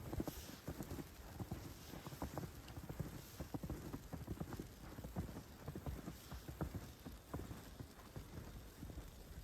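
Footsteps on snow at a walking pace, a dense run of short, irregular steps.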